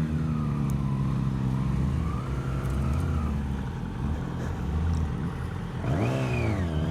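Inline-four engine of a 600cc supersport motorcycle heard onboard while riding, running at a steady note with small changes in revs. About six seconds in the revs rise sharply and then fall again.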